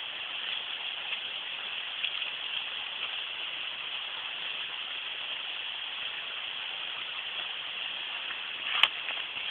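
Steady rush of flowing stream water, with one sharp click near the end.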